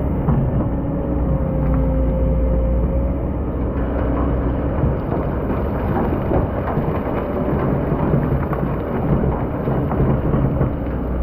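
Excavator's diesel engine running steadily while the bucket scrapes and crunches through hard, compacted sand. The crackling grows denser from about four seconds in.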